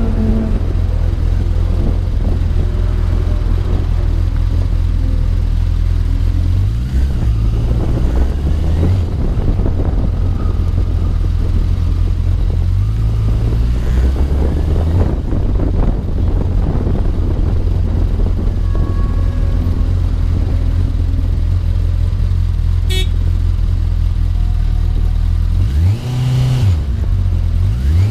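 Honda CBR1000RR Fireblade inline-four engine of an MNR Vortx running at low road speed, with the revs briefly rising and falling about seven seconds in, again around thirteen seconds, and once more near the end.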